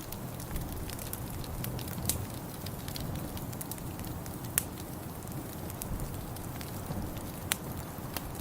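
Wood fire burning in a fireplace: a steady low rush with scattered sharp crackles and pops, three of them louder, about two, four and a half and seven and a half seconds in.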